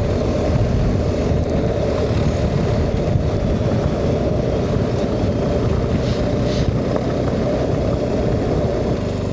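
BMW R 1250 GS boxer-twin motorcycle engine running under way up a rough gravel track, mixed with tyre and wind noise. Two short hissing sounds about six seconds in.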